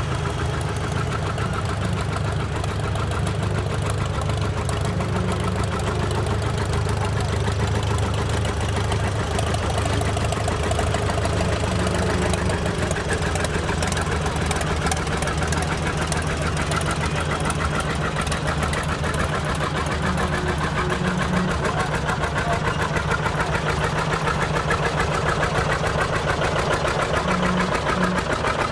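Antique tractor engines running with an even, rhythmic firing beat; the low engine note shifts higher about twelve seconds in.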